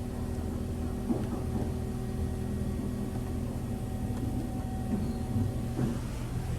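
D&S Quicksilver in-bay automatic car wash running its hydraulic system: a steady mechanical hum with a few held tones, with brief louder mechanical sounds about a second in and near the end, heard from inside the car.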